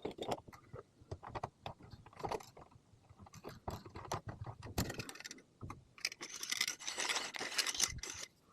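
A wooden peppermill and its peppercorns being handled: small clicks, knocks and rattling, with a denser rattle of peppercorns from about six to eight seconds in.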